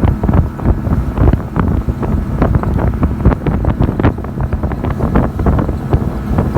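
Wind blowing hard across the microphone on a motorboat under way, over the steady running of its engine, with many short irregular thumps.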